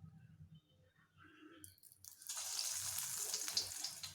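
Hot cooking oil sizzling in a frying pan, a crackly hiss that starts suddenly a little past two seconds in and eases off near the end.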